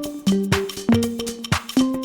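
Background music: an upbeat electronic track with a regular percussive beat and short plucked, pitched notes.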